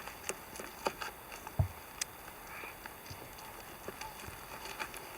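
Scattered light clicks and ticks, with a single dull thump about a second and a half in.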